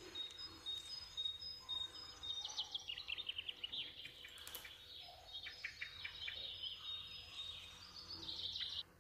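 Small birds chirping and trilling in high, quick runs of repeated notes, cutting off abruptly near the end.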